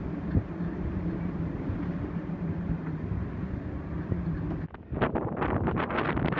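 Wind on the microphone: a steady rush with a faint low hum, then a sudden change near the end to choppy, gusting buffeting.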